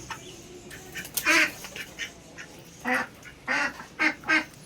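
Domestic duck quacking: a run of about five loud, harsh quacks, the longest about a second in.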